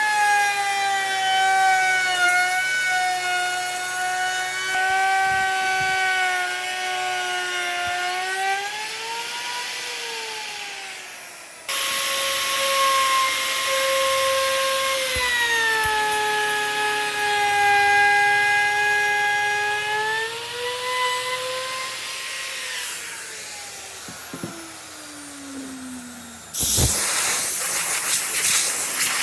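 Electric power tool motor whining on wood, its pitch sagging as it bogs under load and rising again as it frees, in two stretches that break off abruptly. A steady hiss cuts in near the end.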